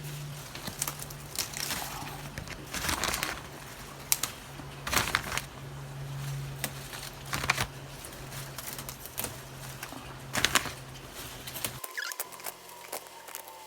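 Lettuce leaves rustling and snapping as they are picked by hand: irregular crackles and rustles over a low steady hum, which cuts off near the end.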